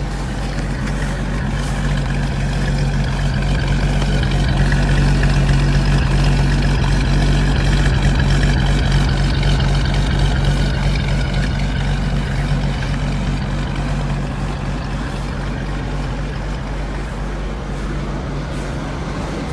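1947 Dodge's flathead straight-six running at a fast idle on the choke just after a cold start, still warming up. The engine speed swells a little a few seconds in, then slowly settles back.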